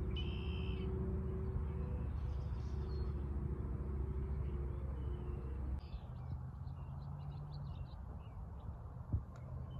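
Small birds chirping now and then over a steady low rumble, with a single thump near the end.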